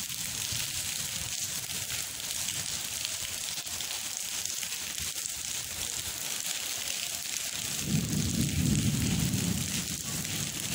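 Steady rain falling on puddles and wet paving, an even hiss. A low rumble joins about eight seconds in.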